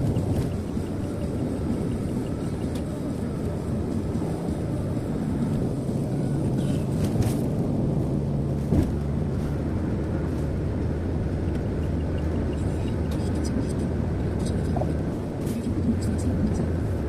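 Steady road and engine noise heard inside a moving car's cabin at highway speed, with a few faint clicks and ticks.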